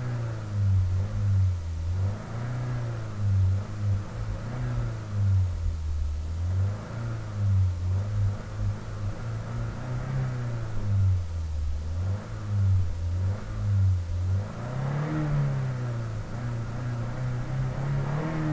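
Car engine revved over and over as the accelerator pedal is pumped: the engine note climbs and drops back in short revs, roughly one a second.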